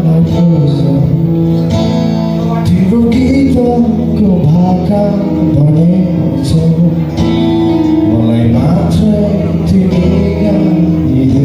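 Live acoustic band music: a male voice singing over strummed acoustic guitar.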